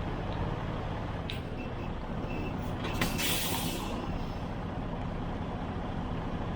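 Diesel truck engine idling steadily, with a short, sudden hiss of released air from the air brakes about three seconds in.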